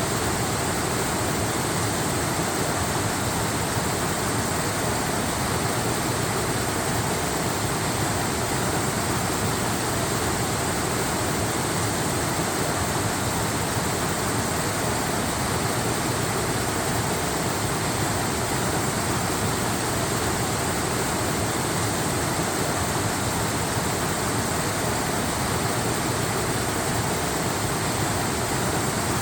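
Waterfall, water falling and rushing in a steady, unchanging roar.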